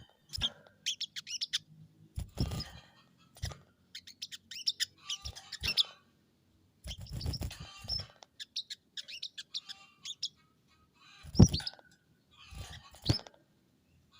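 Caged sogon (crested jay) calling in short, irregular bursts of high chirps and rattles, several mixed with sharp knocks.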